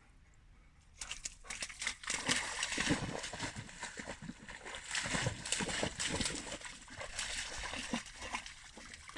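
Golden retriever splashing and sloshing through water in irregular bursts, starting about a second in.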